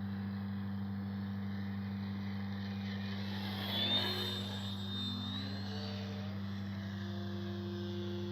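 Brushless electric motor and propeller of an FMS Ranger 1220mm RC plane in flight, whining and shifting in pitch as it passes, loudest about four seconds in. A steady low hum runs underneath.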